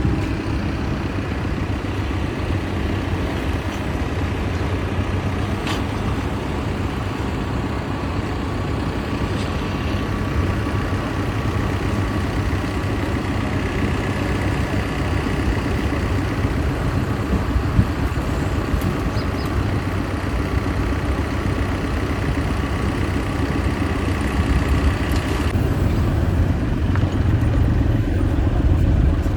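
Heavy engine running steadily with a low rumble and a thin steady whine, which stops near the end while the rumble carries on.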